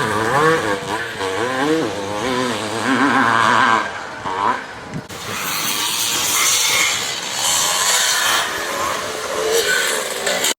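Vintage motocross bikes racing: engines revving up and down for about the first four seconds, then a denser, hissier rush of engine noise.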